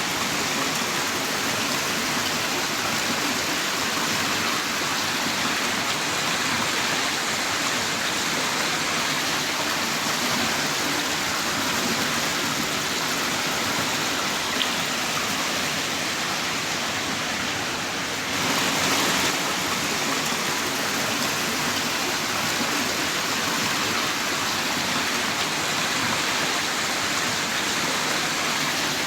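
Heavy rain downpour, a steady dense hiss with a brief swell a little past the middle.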